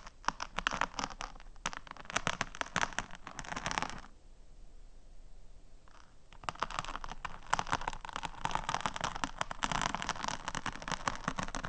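Fingernails tapping fast and scratching on small hard ASMR props, a dense crackly run of clicks. It stops for about two seconds in the middle, then starts again.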